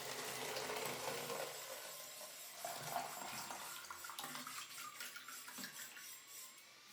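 Running, splashing water with scattered light clicks and knocks of metal through it. The sound cuts off at the end.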